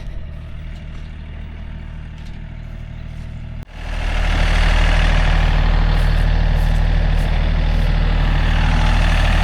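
Tractor engine idling steadily; about four seconds in the sound breaks off for an instant and comes back much louder and closer, running evenly.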